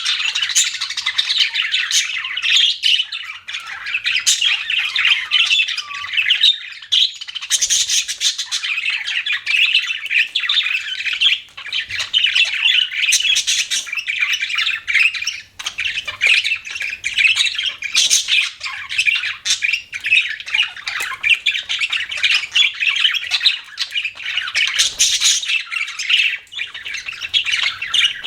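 Budgerigars chirping and chattering without a break, many short squawks and warbles overlapping.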